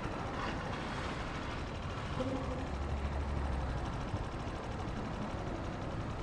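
Italika 250 motorcycle underway in traffic: a steady rush of wind and road noise over the helmet-mounted microphone, with a low engine and vehicle hum swelling briefly in the middle.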